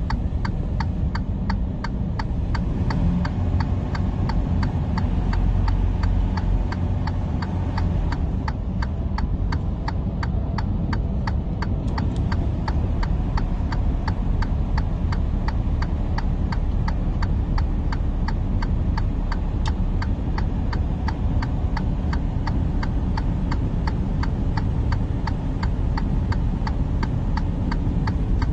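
Steady low rumble of a vehicle on the move, with a regular ticking about three times a second.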